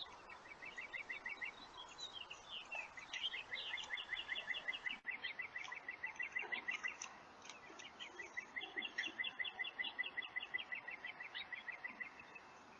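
A bird singing repeated rapid trills of short, even chirps, about eight notes a second, with a short pause midway, over a steady faint hiss.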